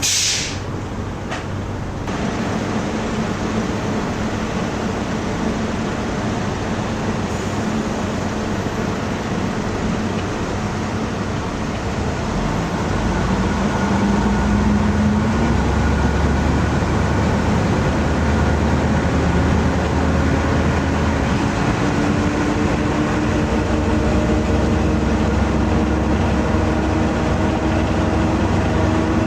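Diesel railcar heard from inside. A short hiss of air right at the start, then steady running noise. About 13 seconds in the engine note grows louder and then slowly rises in pitch as the train picks up speed.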